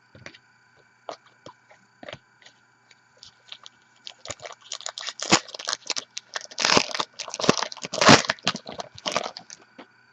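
Trading cards and their packaging being handled by hand: a few scattered clicks and rustles, then from about four seconds in a dense run of crinkling and crackling that stops shortly before the end.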